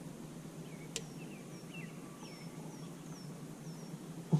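Small birds chirping: a series of short, high, falling chirps, over a faint low steady hum, with one sharp click about a second in.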